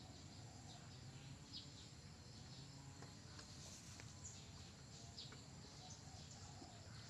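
Near silence: faint outdoor background hum with a few short, high bird chirps scattered through it.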